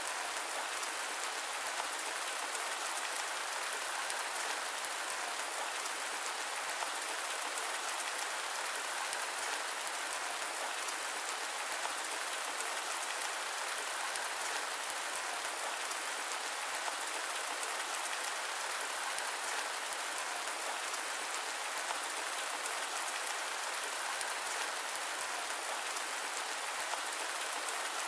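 Steady rain: an even, unbroken hiss with a fine patter of drops, unchanging in level throughout.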